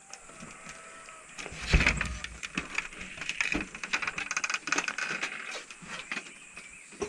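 Knocks, scrapes and rattling clatter of something being shut up by hand, with one heavy thump about two seconds in.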